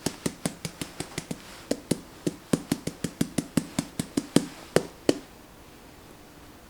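Knife chopping on a cutting board: about two dozen sharp knocks at roughly five a second, stopping about five seconds in.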